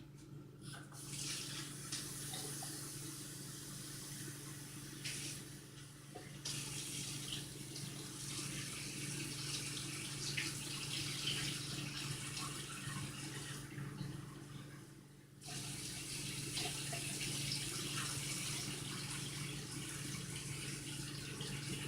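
Kitchen tap running while fresh blueberries are rinsed under it, the splashing easing off briefly twice. A steady low hum sits underneath.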